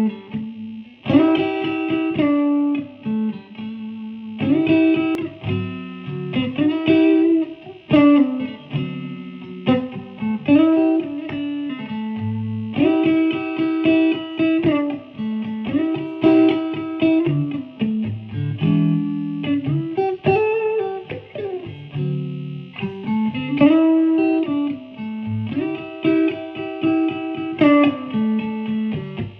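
Electric guitar played clean through a 100-watt single-channel Dumble- and Tweed Bassman-style amplifier, in a series of phrases a few seconds apart mixing chord strikes with bent notes.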